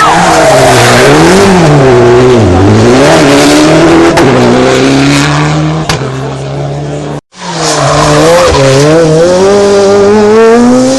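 Rally car engine revving loudly as it is worked through a tight hairpin, its pitch dipping and rising with gear changes, with tyres squealing. The sound cuts out abruptly about seven seconds in, then a rally car's engine is heard again, climbing steadily in pitch as it accelerates.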